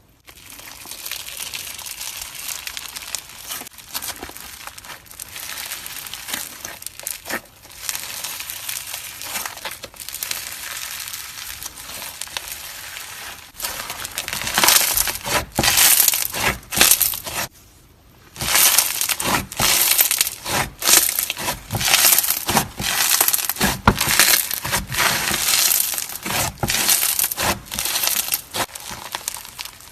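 Crunchy slime being squeezed and worked by hand, a dense crackling crunch. It is softer for the first half, turns much louder about halfway through, and stops briefly just after that.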